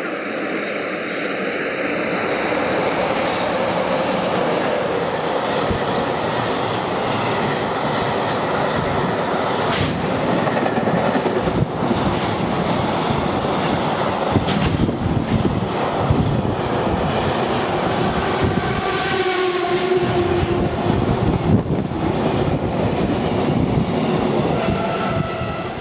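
A train passing close by at speed, its wheels clattering steadily over the rail joints, with a whining tone joining in about two-thirds of the way through.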